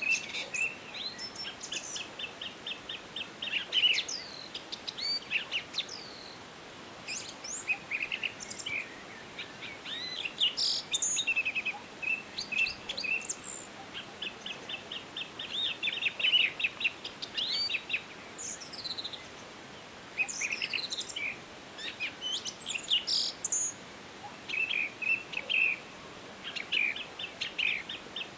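Several songbirds singing and calling at once: repeated fast trills and short chirps, some descending whistles, over a faint steady hiss.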